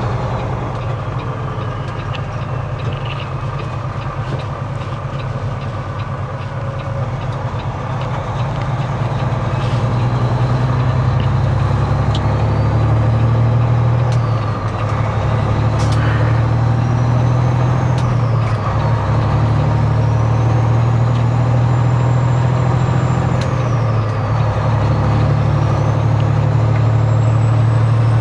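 Semi-truck diesel engine heard from inside the cab, pulling away and accelerating up through the gears. A faint turbo whistle climbs in each gear and falls back at each shift, three times in the second half.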